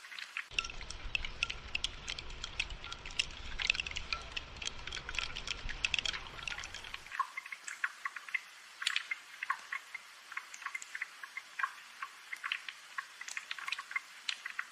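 Rain falling as close, separate drops that drip and patter in quick, uneven ticks. From about half a second in to about seven seconds in, a low rumble runs underneath.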